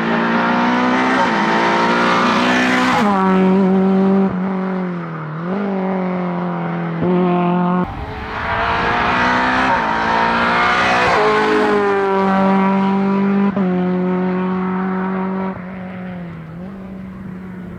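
A race car's engine revving hard on a hillclimb, run up through the gears with several sharp drops in pitch at the gear changes. It fades away over the last couple of seconds.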